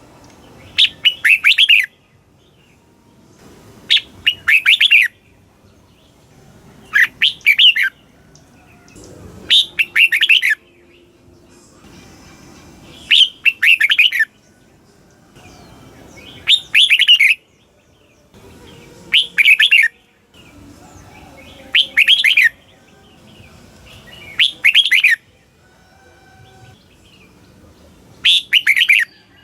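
Red-whiskered bulbul singing: short, loud, warbling phrases about a second long, repeated about every three seconds, ten times over.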